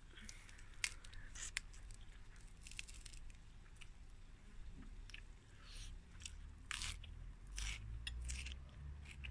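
A person chewing a crunchy raw green vegetable close to the microphone, with irregular crisp crunches.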